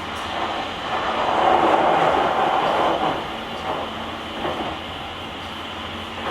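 JR Kyushu 883 series electric train running at speed, heard from the vestibule deck: a steady rush of wheel and running noise that swells louder for about two seconds, starting about a second in, then settles back.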